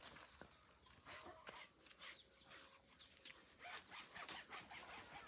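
Faint insect chirping: a steady high trill with an even, rapid pulse, and a few soft clicks.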